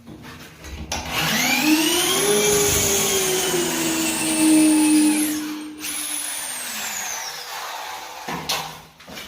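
Electric motor of a handheld power tool starting abruptly, running for about seven seconds with a pitch that rises briefly and then holds steady, before winding down near the end.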